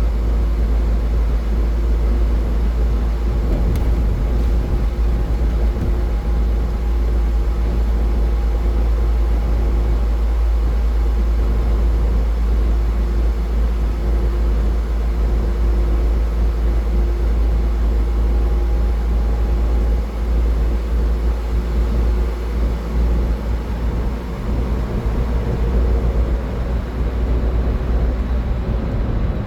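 Car driving on a highway: steady road and engine noise, a strong low rumble with a faint hum over it.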